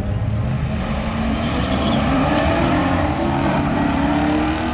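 Car engine accelerating hard, its pitch climbing steadily through the gears' pull.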